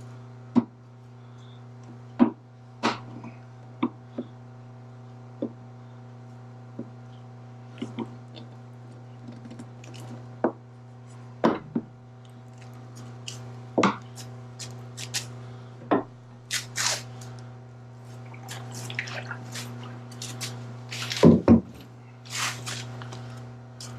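Scattered clinks, clicks and knocks of hand tools and metal parts being worked loose during removal of a roller's water tank, at irregular intervals and busier toward the end, over a steady low electrical hum.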